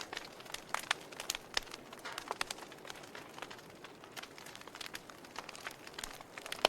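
Wood fire burning in a fireplace: irregular crackles and sharp pops over a soft hiss, with one louder pop near the end.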